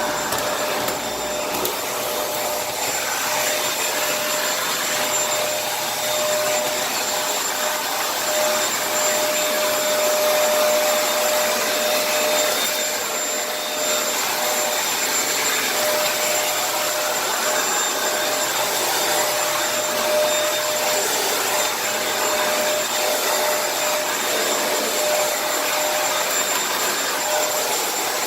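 Kenmore vacuum cleaner running continuously, a steady motor whine over the rush of air.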